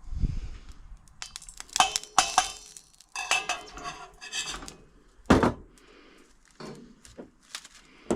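Pots, pans and cutlery clinking and clattering as they are handled and rummaged through, with a dull knock at the start and a louder knock about five seconds in.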